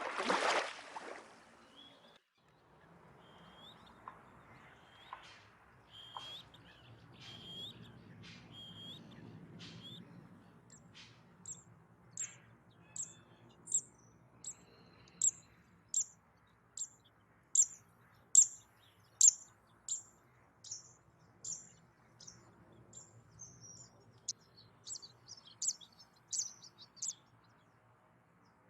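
A small bird calling: a few scattered chirps, then a long run of sharp, high calls repeated evenly, about three every two seconds, before stopping. A brief rush of noise at the very start, and a faint low rumble underneath.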